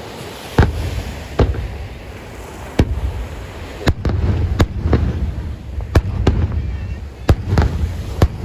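Fireworks display: about ten sharp bangs of firework bursts at irregular intervals, each followed by a low rolling rumble.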